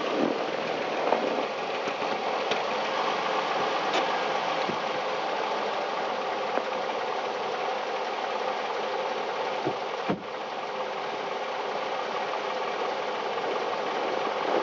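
Car engine running under steady throttle as the car, stuck in snow, is driven to get free. The sound dips briefly about ten seconds in.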